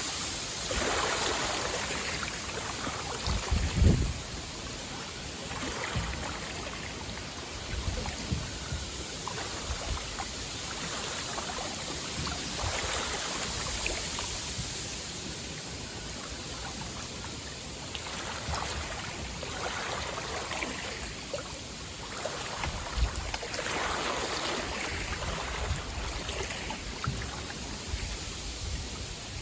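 Wind-driven waves lapping and splashing against a lakeshore in strong wind, coming in swells every few seconds. A gust hits the microphone with a low rumble about four seconds in.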